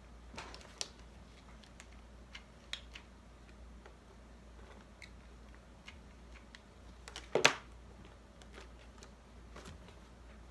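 Craft supplies being handled and rummaged through: scattered small clicks and taps, with one louder knock about seven seconds in.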